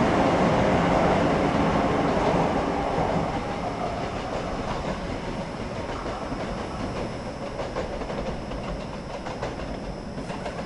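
Shinkansen high-speed train running along the track, its rumble and wheel noise loud at first and then fading steadily from about three seconds in as it moves away.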